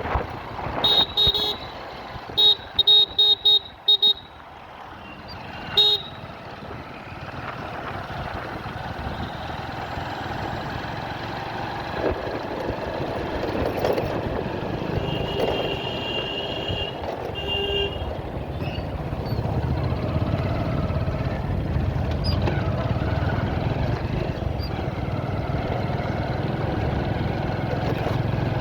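Vehicle horns honking in road traffic: a quick series of short beeps in the first few seconds, a few more halfway through, over a steady rumble of traffic and engines that grows heavier near the end.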